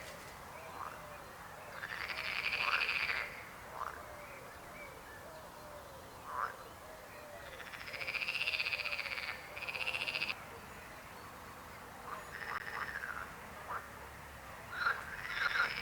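A chorus of frogs croaking. Long rattling calls come about two seconds in, around eight to ten seconds in and again near the end, with short falling chirps between them over a faint steady background of quieter, lower croaks.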